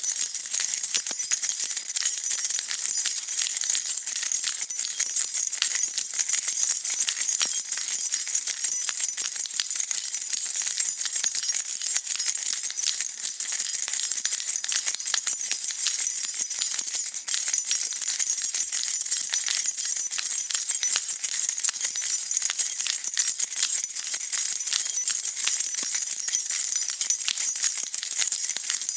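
A bunch of metal keys being shaken and jingling continuously, a dense, steady rattle of small metallic clinks.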